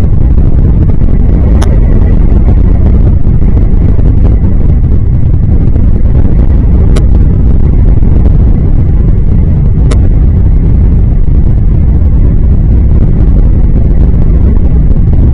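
Loud, steady low rumble of wind buffeting an outdoor microphone, with three faint sharp clicks.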